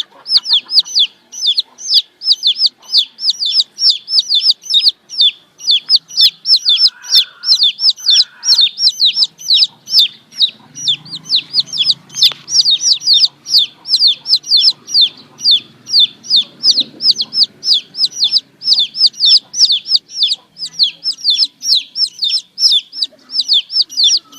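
Baby chicks peeping continuously: a steady stream of loud, high, downward-sliding cheeps, about three a second. Faint lower sounds lie beneath them around the middle.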